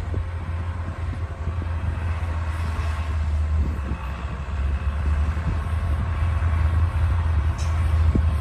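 Bulldozer's diesel engine running steadily, with a few short knocks from the machine as it works.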